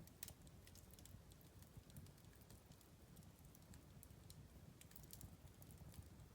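Wood fire crackling quietly in a fireplace: irregular sharp pops and snaps over a low steady rumble.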